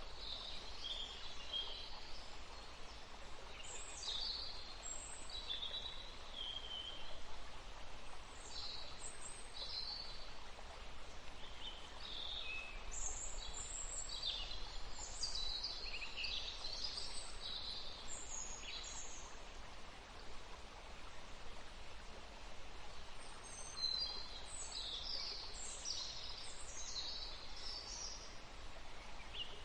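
Small songbirds chirping and twittering in short, quick calls over a steady outdoor hiss. The calls come in clusters, busiest in the middle and again near the end.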